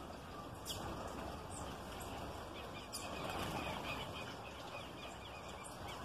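Small birds at a feeder giving a few short, sharp high chirps, with a brief flutter of wings and chatter about halfway through, over steady low background noise.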